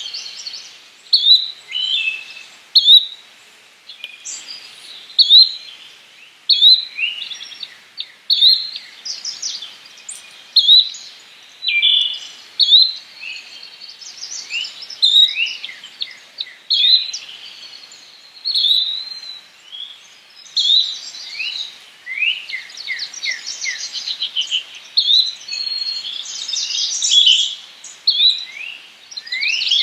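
Yellow-bellied flycatcher calls: short high chirps repeated about once a second, with denser, overlapping bird calls in the second half.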